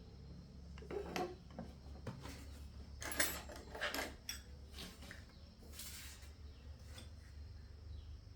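Hard objects clinking and clattering as they are handled, a scatter of sharp knocks loudest about three seconds in, over a steady low hum.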